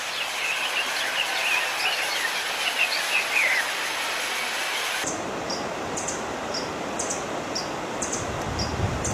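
Outdoor recording with a steady hiss of background noise and birds chirping over it. About halfway through it cuts to another noisy recording in which a short high chirp repeats about twice a second.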